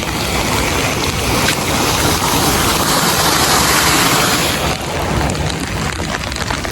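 Heavy rain and rushing floodwater in a rising creek, a steady hiss with a low rumble of wind buffeting the microphone. It swells louder from about a second and a half in and eases off near the end.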